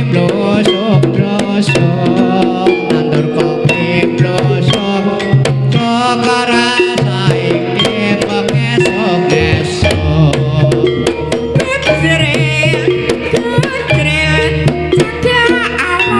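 Banyumasan gending jaranan, Javanese gamelan music with brisk kendang hand-drumming over sustained pitched instruments. A deep bass comes in about halfway through.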